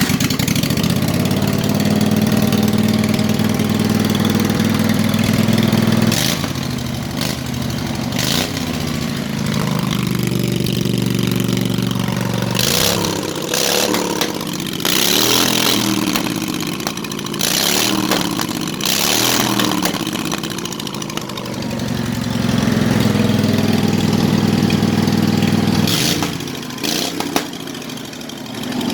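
21 hp Briggs & Stratton V-twin engine on a hot-rodded riding lawnmower catching on start-up and running loud. It is held at high speed, then revved up and down repeatedly, then held high again. A few short sharp pops and bangs stand out over it.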